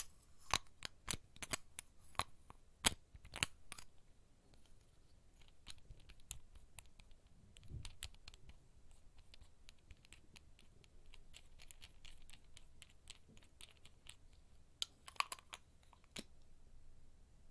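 ASMR fingertip tapping and scratching on small objects taken from a bag, heard as irregular sharp clicks. The taps come quickly for the first few seconds, thin out to light scattered ticks, and pick up in a brief flurry near the end.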